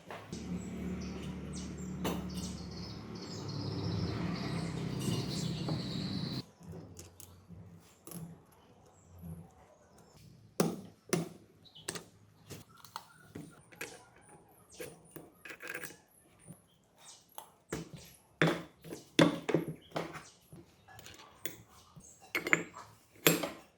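A small motor runs steadily and cuts off suddenly about six seconds in. Scattered sharp metal clicks and knocks follow, like engine parts and tools being handled on a bench.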